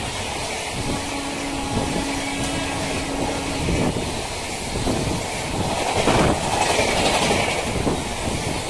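Passenger coaches of an express train passing at speed: a steady rush of wheels on rails with a rapid, uneven clatter of wheels over rail joints.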